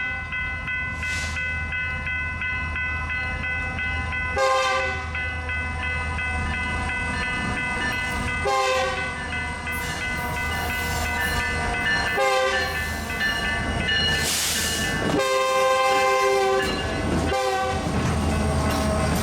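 Locomotive horn sounding a string of long blasts, restarting about every three to four seconds, over the steady rumble of a passing train. A short hiss comes near the middle.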